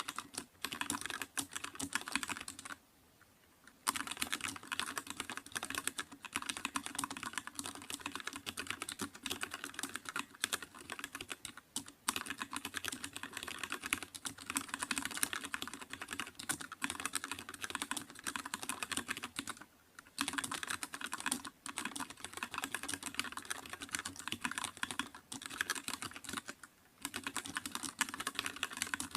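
Continuous fast typing on a computer keyboard: a dense patter of key clicks, broken by short pauses about three seconds in, around two-thirds of the way through and again near the end.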